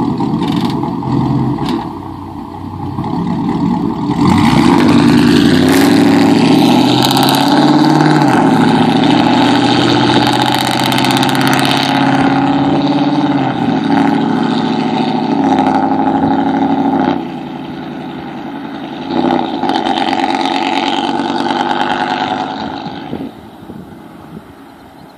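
Straight-piped 5.3L V8 on true dual exhausts with no mufflers, running loud. It rises in pitch about four seconds in and holds high revs, drops back around seventeen seconds, blips again near twenty, then fades near the end.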